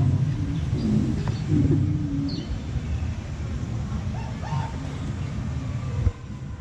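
Steady low rumble of a moving ride boat, with a few short, high bird-like chirps. The level drops abruptly about six seconds in.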